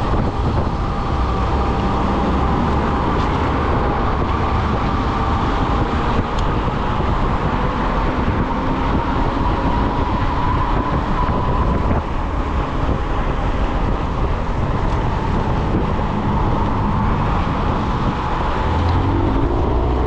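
Ecotric 20-inch fat-tire e-bike riding at speed on the road: a steady rush of tire and wind noise with a thin whine that climbs slightly in pitch around the middle.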